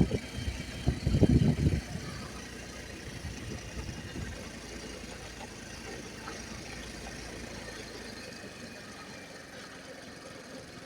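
Motorbike engine, with loud irregular low rumbles in the first two seconds, then running steadily and much more quietly, as if idling or rolling slowly, fading a little toward the end.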